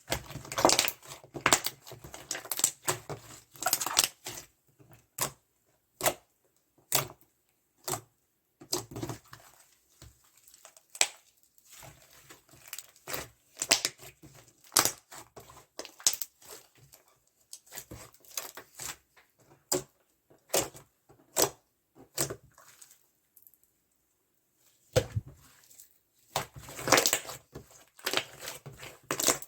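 Slime being squeezed and poked by hand, making bursts of crackling clicks and pops with short pauses between them.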